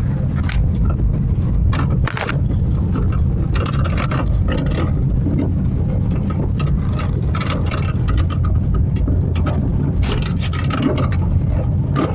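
Honda Fit driving over uneven pavement: a steady road and tyre rumble with repeated short clunks and rattles from the front end, coming in bunches. The clunk persists after new lower arm bushings, shock mounts, tie rod end and stabilizer links, and the owner suspects the steering column or a failing bearing.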